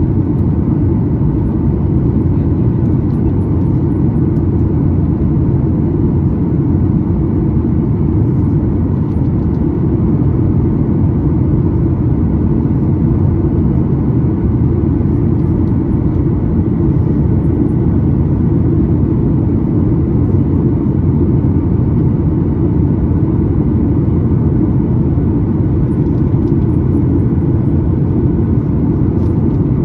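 Steady cabin noise inside a Boeing 737-9 MAX in flight: a low, even rumble of airflow and CFM LEAP-1B engines, with faint steady tones above it.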